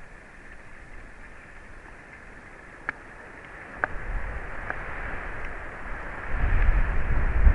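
Wind rumbling and buffeting on an outdoor microphone. It builds about halfway through and grows much stronger near the end, with three or four short sharp clicks or call notes in the middle.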